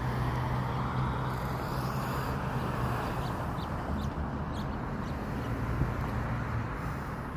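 Steady outdoor street noise with a low hum, the kind of ongoing traffic sound heard on a city street, with a few faint short bird chirps.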